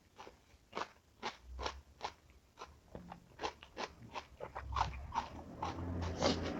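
Close-up chewing of crunchy food: a run of crisp crunches, about two a second at first, coming faster toward the end.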